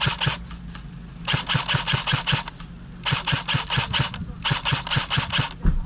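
Airsoft electric rifle firing on full auto in four quick bursts, each a rapid string of gearbox clacks and shots. There is a single low thump near the end.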